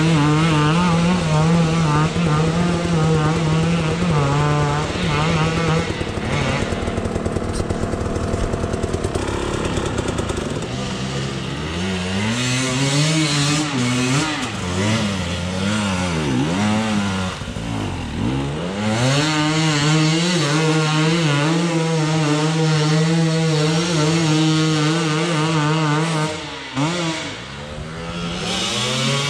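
Two-stroke dirt bike engine running at high revs, held steady for stretches, with the revs swooping down and back up several times around the middle and dropping briefly near the end.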